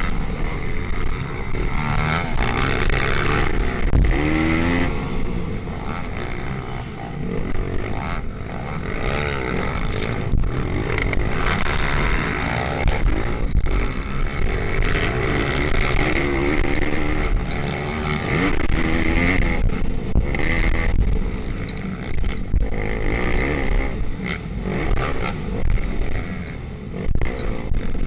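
Pit bike engines racing, the small single-cylinder engines' pitch rising and falling again and again as they rev.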